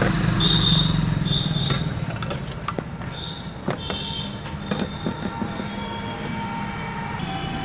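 A motor vehicle engine running, loudest at first and fading over the first few seconds, with a few sharp metallic clicks in the middle.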